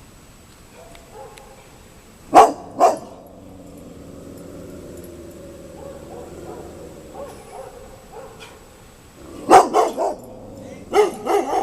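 Dogs alarm-barking at something unfamiliar: two loud barks about two seconds in, a quieter low stretch, then a quick run of barks near the end.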